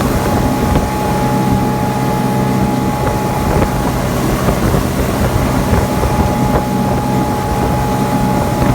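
A 19-foot Grady-White ski boat's engine runs steadily under load while towing a slalom skier, with wind buffeting the microphone and a few light knocks.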